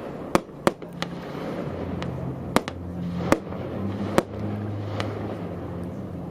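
Fireworks going off over a lake: about seven sharp bangs at irregular intervals, each with a short echoing tail, over a low steady hum.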